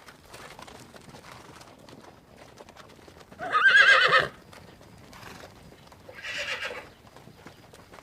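Horse whinnying: one loud neigh with a quavering, wavering pitch about halfway through, then a shorter, fainter second call near the end, over faint hoof clops.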